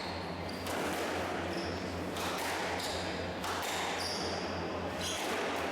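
Squash rally: sharp hits of the ball off rackets and walls about once a second, with shoes squeaking on the court floor, over a steady low hum.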